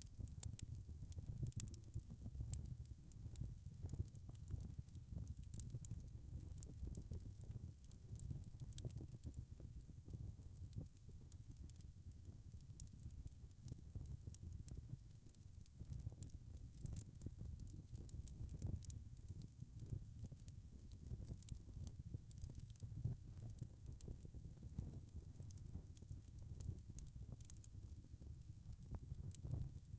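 Wood fire crackling: a faint steady low rumble of flames with frequent small, sharp pops and crackles.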